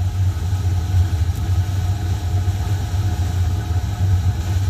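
Furnace running with a steady low hum, warming up before its blower fan starts.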